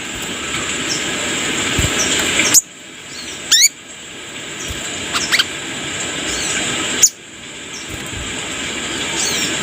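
Korlap songbird giving short, high, squeaky chirps every second or two, over a steady hiss that swells and cuts off suddenly twice.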